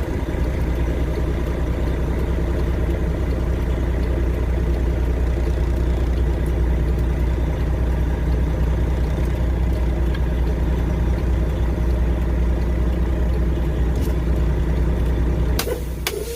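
Diesel engine of a Freightliner Classic XL semi-truck idling steadily. Near the end there are a couple of sharp clicks.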